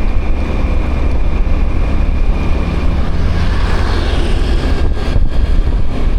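Wind buffeting the microphone of a moving motorbike, over the bike's engine and road noise as a steady low rumble. A thin high whine stops about three seconds in.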